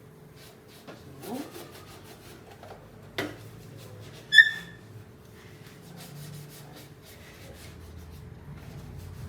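A sponge scrubbing the surface of an electric stove with baking soda and vinegar, in repeated rubbing strokes, with one short high squeak about four seconds in.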